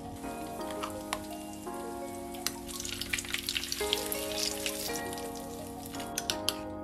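Breaded zucchini strips sizzling and crackling in hot oil in a frying pan, the crackle busiest in the middle, over background music of sustained chords that change every second or so.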